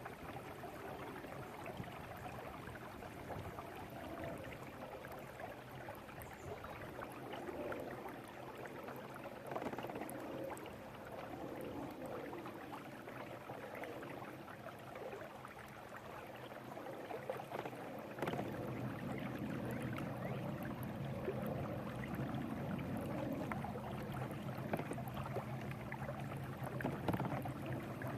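Electric trolling motor on a Feelfree Lure 11.5 kayak humming steadily, with water gurgling and splashing along the hull. The hum is fainter for a while, then comes back louder about two-thirds of the way through.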